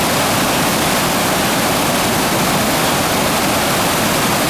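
Waterfall rushing steadily, a loud, even hiss of falling water.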